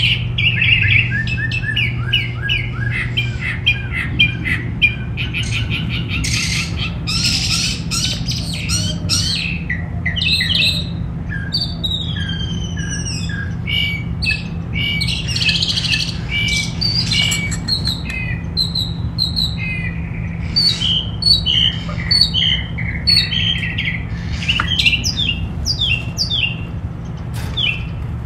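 Several backyard songbirds chirping and singing in quick, overlapping phrases, over a steady low hum.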